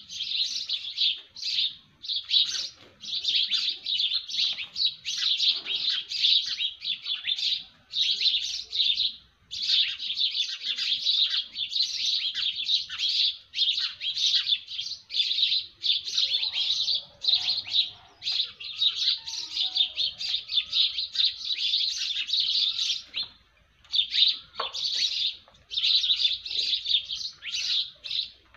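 Birds chirping in a dense, rapid chatter, in long runs broken by brief pauses.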